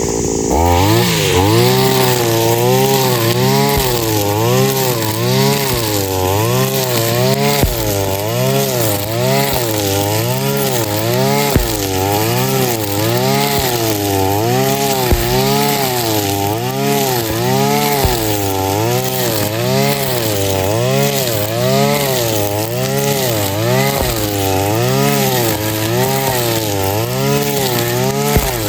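Backpack brush cutter's 41 cc two-stroke engine revving up about half a second in, then running fast with its pitch rising and falling about once a second, with a few sharp clicks.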